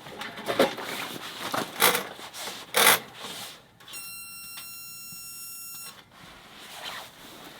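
Irregular knocking and rustling of objects being handled, with the sharpest knock about three seconds in. Then a steady, high electronic beep lasts about two seconds.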